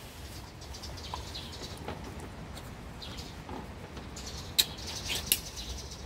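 Small birds chirping in short, high, scattered twitters, with a sharp click about four and a half seconds in.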